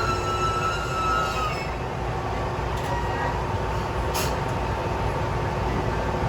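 A train's wheels squealing on the rails, the squeal fading out about a second and a half in, then the steady low rumble of the diesel railcar standing or creeping at the platform.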